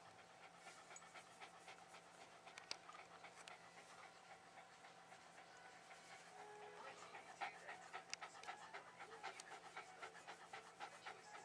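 Faint, quick panting of a Jack Russell terrier cross, growing a little louder and busier about halfway through.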